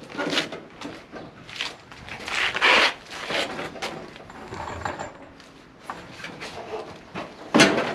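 Irregular scraping, rubbing and knocking as a floor jack is set under an engine and the engine is shifted by hand, with a sharp clank near the end.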